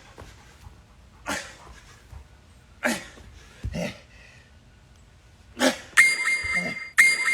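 Short forceful grunts of breath, one about every second and a half, each falling in pitch, from a man doing weighted jump squats. Near the end an interval timer sounds two electronic beeps a second apart, counting down the end of the work interval.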